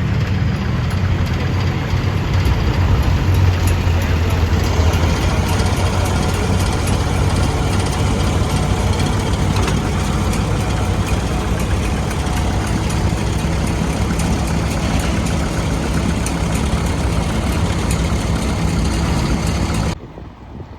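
Vintage tractor engine running steadily close by, with a low, even firing beat. The sound drops away abruptly just before the end.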